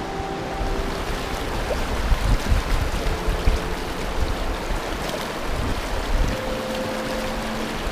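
Steady rush of a river's flowing water, with a few low bumps about two to three and a half seconds in.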